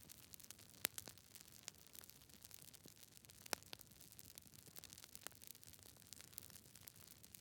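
Campfire of burning wood crackling softly over a faint hiss, with scattered sharp pops, two louder ones about a second in and about three and a half seconds in.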